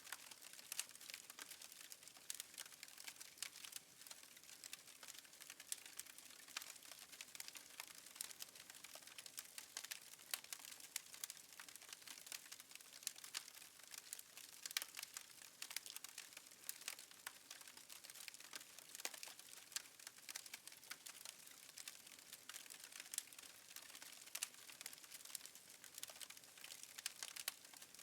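Fireplace fire crackling faintly, a steady scatter of small irregular pops and snaps.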